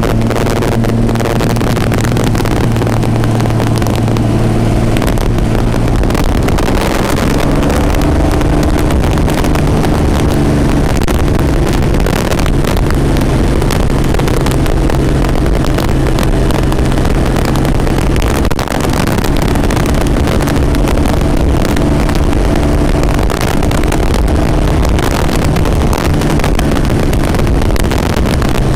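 V12 marine racing engine in a Shelby AC Cobra running loud while the car is driven. It holds a steady note that steps to a new pitch a few times, over road and wind noise.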